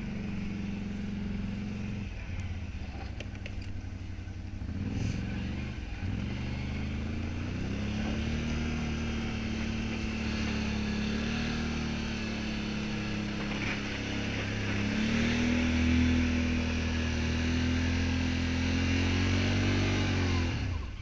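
Can-Am 570 XT ATV's V-twin engine running, its pitch dipping about five seconds in, then climbing back. It rises higher again around fifteen seconds in and falls away near the end.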